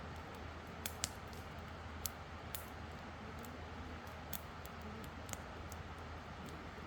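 Wood campfire crackling: a steady low hiss with sharp, irregular pops and snaps, a few a second at most, the loudest about a second in.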